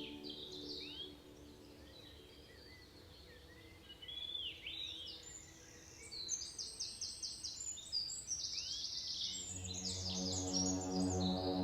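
Birds calling: repeated short arching chirps and fast high trills, growing busier partway through. Soft ambient music fades out at the start and comes back in near the end.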